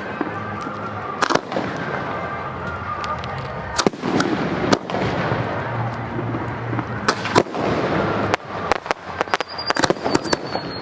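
Aerial fireworks display: a series of sharp shell bursts over continuous crackling, with a quick run of reports near the end and a whistle near the close.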